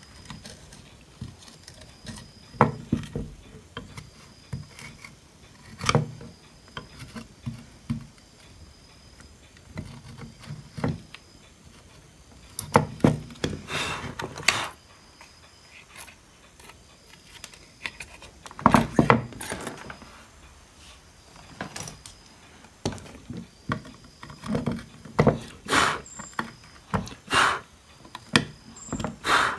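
Irregular clicks, taps and short scrapes of hand tools on a circuit board while corroded components are desoldered and the solder is cleared from their holes, with a few louder scraping bursts.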